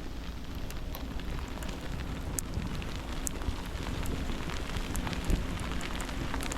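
Steady crackling, rain-like outdoor noise with many scattered light ticks over a faint low hum.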